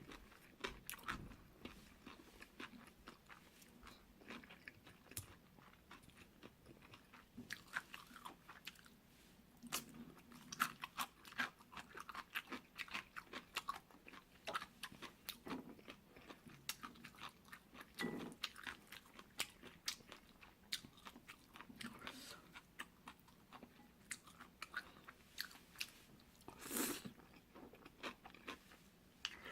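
Close-miked chewing of jjolmyeon, spicy chewy cold noodles: a steady stream of small, irregular wet clicks and crunches, with a louder burst near the end.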